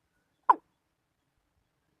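A single short, sharp call note from a watercock, about half a second in, one of a slow series of similar notes spaced roughly a second or more apart.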